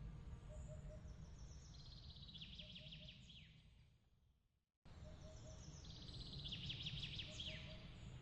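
Bird chirping and trilling in quick high phrases over a steady low rumble of background noise. The sound fades out about four seconds in, falls silent for about half a second, then cuts straight back in with the same phrase repeated, the seam of a looped ambience recording.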